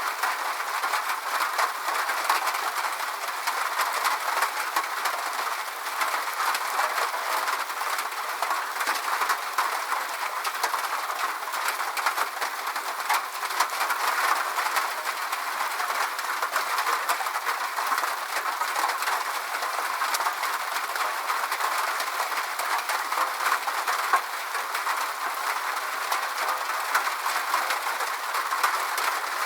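Steady rain falling: a dense patter of many small drops over an even hiss, without let-up.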